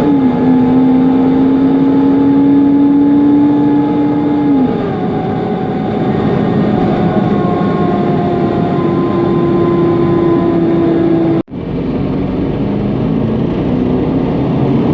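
Mercedes-Benz Conecto NGT city bus under way, heard from inside: its OM 936 G six-cylinder CNG engine and its loud cooling fan drone steadily. The steady tone drops in pitch about five seconds in, like an upshift of the automatic gearbox, then climbs slowly as the bus gathers speed; the sound cuts out for an instant past the middle.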